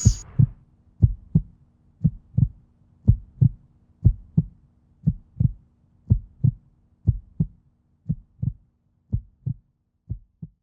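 Heartbeat sound effect: paired lub-dub thumps about once a second at a steady pace, growing a little fainter toward the end, over a faint low hum that stops about nine seconds in.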